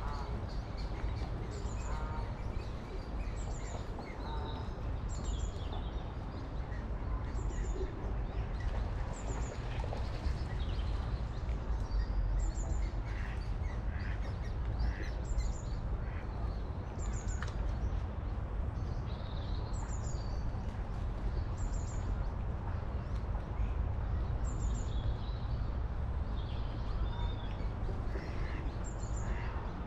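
Birds calling: a short high chirp repeated every second or two, with other scattered bird calls, over a steady low rumble.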